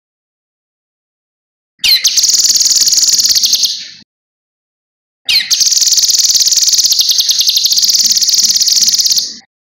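Kinoi (cucak rante mas) songbird singing two long, rapid, high-pitched trills: one of about two seconds starting about two seconds in, and a longer one of about four seconds starting midway. Each opens with a quick falling note.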